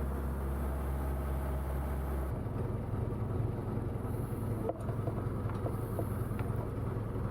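Boat engine running with a steady low drone that shifts in pitch and texture about two seconds in.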